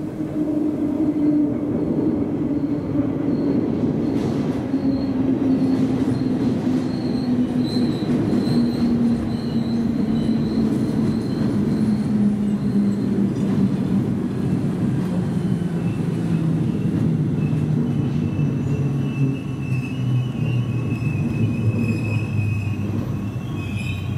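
Two coupled NS ICM (Koploper) electric multiple units braking into a station: a running hum falling steadily in pitch as the train slows, with a high brake squeal coming in after about two-thirds of the way and growing near the end.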